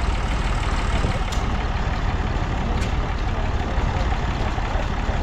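An engine running steadily with a deep, fast-pulsing rumble.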